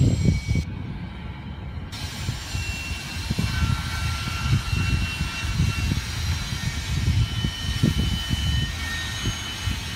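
Double-stack intermodal freight train rolling past: a low rumble from the cars that rises and falls unevenly, with faint thin high squeals coming and going.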